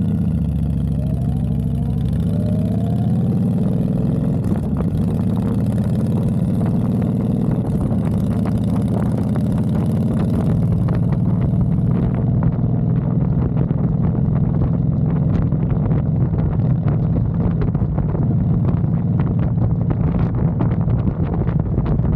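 Honda Fury motorcycle's V-twin engine running while riding, its pitch rising over the first few seconds as it accelerates, then running steadily.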